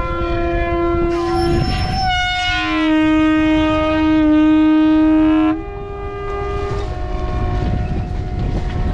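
Many boat horns sounding at once in overlapping steady blasts of different pitches, sounded as a tribute. The loudest horns stop abruptly about five and a half seconds in, and fainter horns keep going after them.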